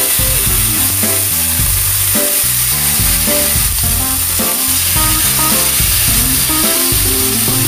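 Chicken wings sizzling steadily as they pan-fry in a little oil, with background music playing over it.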